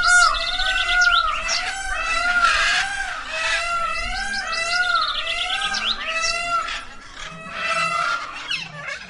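A dense chorus of birds calling: a steady run of repeated, arching notes, several a second, with quicker chirps and trills layered over them, thinning out near the end.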